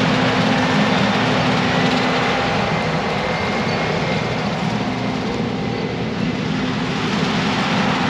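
Straight-piped Peterbilt 389's diesel engine running steadily, easing off slightly about five seconds in and coming back up.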